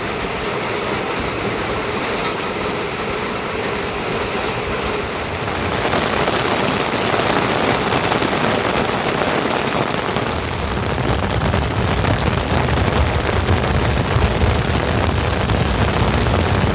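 Steady heavy rain, a dense even hiss that grows louder about six seconds in and takes on a deeper rumble from about ten seconds.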